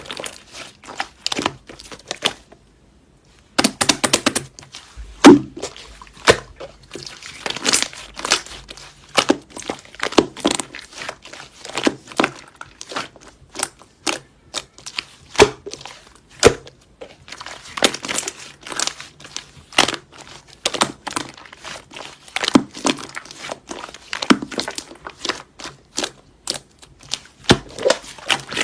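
Slime being squished, stretched and poked by hand, making a string of irregular crackling clicks and pops as air pockets burst. The sound stops briefly for about a second and a half early on, then carries on.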